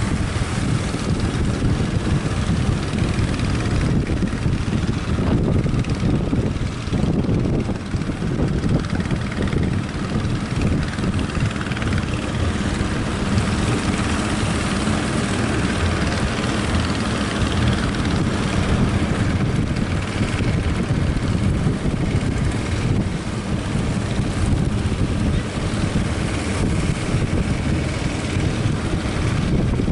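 Fishing boat engine running steadily, with strong wind buffeting the microphone.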